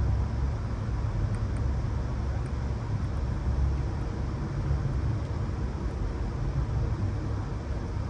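Steady low rumble of a moving passenger train heard from inside the car: the ride noise of the Amtrak Empire Builder rolling along the rails.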